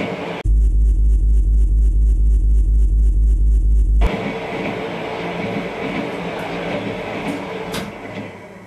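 Passenger train noise cut together from several clips: a heavy, evenly pulsing low rumble for a few seconds, then steadier running noise with a few sharp clicks, fading out at the end.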